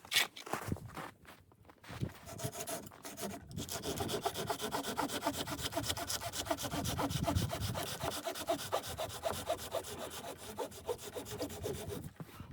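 A saw cutting through wood in quick, steady back-and-forth strokes. It starts about two seconds in, after a few knocks, and stops near the end.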